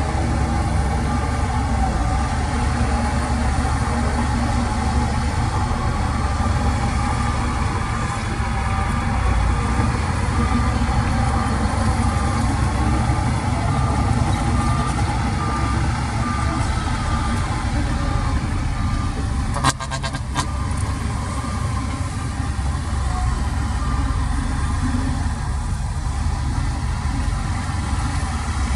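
The engine of heavy earthmoving machinery running steadily under work, with a reversing alarm beeping evenly through much of the middle. A short sharp knock, like metal striking, comes about twenty seconds in.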